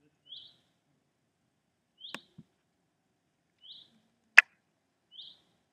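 A bird's short high chirp, repeated at an even pace about every second and a half, four times. A soft knock comes about two seconds in, and a sharper, louder click about four seconds in.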